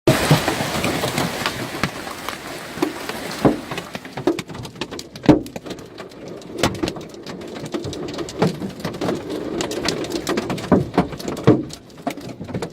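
Hailstones pelting down and striking hard surfaces: a dense patter of hits with many sharper, louder single impacts, thickest in the first three seconds or so, then thinning a little.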